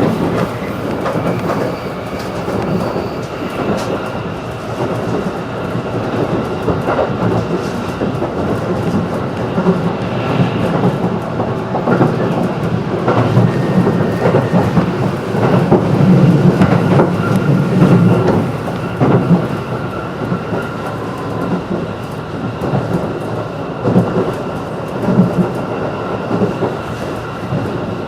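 Running noise of a JR 211 series electric train heard from inside the passenger car: a steady rumble of wheels on rail with irregular clacks over the track, a few faint steady tones above it, as the train nears a station stop.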